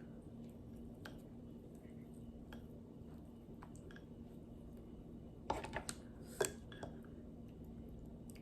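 Close-up mouth sounds of someone eating corn on the cob: faint wet clicks of chewing, then a few louder bites and smacks about five and a half to six and a half seconds in. A faint steady hum runs underneath.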